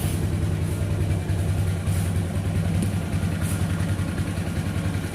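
Bajaj CT 100 B motorcycle's single-cylinder four-stroke engine idling steadily on freshly changed engine oil.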